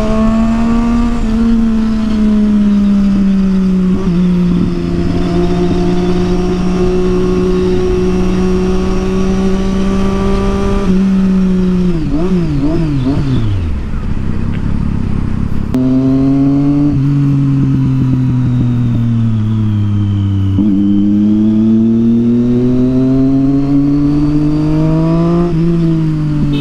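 Triumph Street Triple 675 inline-three engine through a Yoshimura aftermarket exhaust, on the move. It holds a steady note for about ten seconds, drops in pitch as the bike slows, then climbs and falls in pitch a few times as the throttle is opened and closed.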